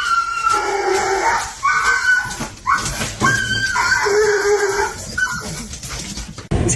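A dog whining and crying in a series of long, drawn-out pitched calls. The sound cuts off suddenly near the end.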